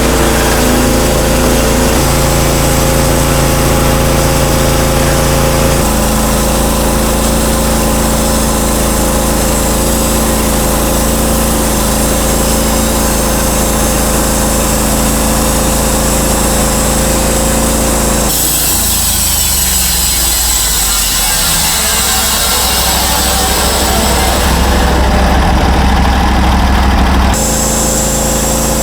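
Norwood HD38 portable band sawmill's gas engine running steadily. About two-thirds of the way through its note changes, then returns to the first steady note near the end.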